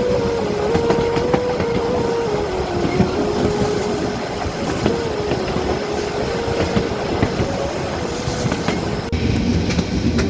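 Harz narrow-gauge train running along the track: a steady rolling rumble with the clickety-clack of wheels over the rail joints. A sustained tone runs through it, stepping up and down slightly in pitch, and the hiss changes abruptly near the end.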